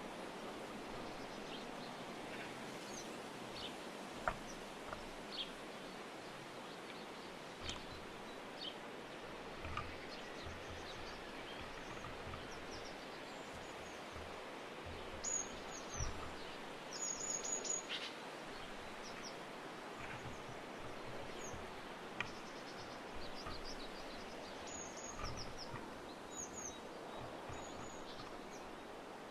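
Small birds chirping in short, scattered high calls over a steady background hiss, with quick runs of repeated chirps about halfway through and again near the end. A few sharp knocks, the loudest about four seconds in.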